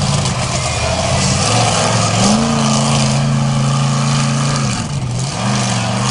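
Monster truck engine running hard, its pitch climbing about two seconds in and holding, then dropping briefly near five seconds before climbing again.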